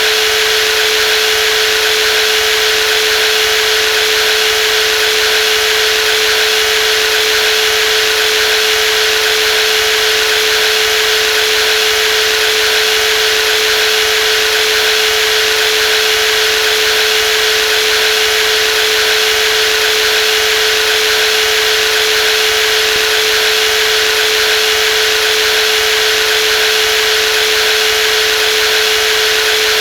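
Brushless jigsaw running steadily, a constant high motor whine with a strong steady hum over a bright hiss.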